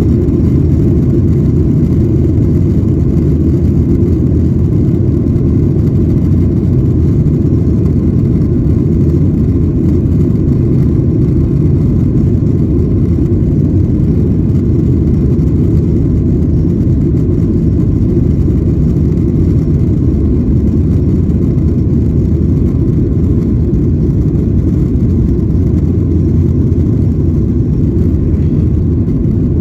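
Steady cabin noise inside a Boeing 737-900ER airliner: an even, loud rumble from its CFM56 jet engines and the airflow, unchanging throughout.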